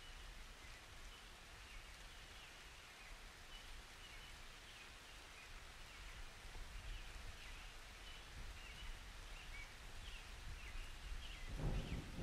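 Faint rain ambience with scattered small bird chirps over a steady hiss; thunder begins to rumble near the end.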